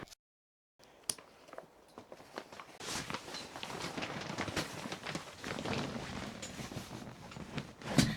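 A moment of dead silence, then a run of irregular footsteps, a few steps a second, with a louder knock near the end.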